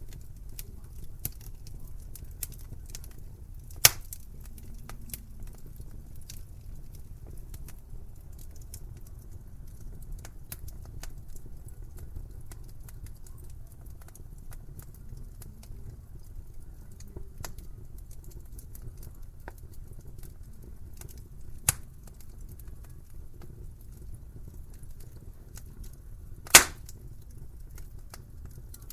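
Wood fire burning in a fireplace, crackling with many small clicks over a low steady rumble, and three sharp, loud pops: about four seconds in, about two-thirds through, and near the end.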